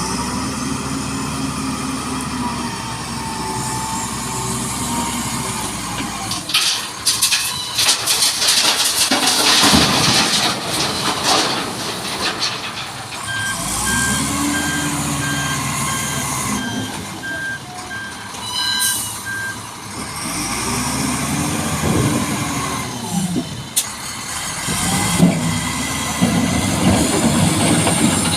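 Heavy diesel engines of dump trucks or loading machines, revving up and down several times. A loud rough noise fills a couple of seconds about a third of the way in. A reversing beeper pulses evenly, about two beeps a second, for some six seconds in the middle.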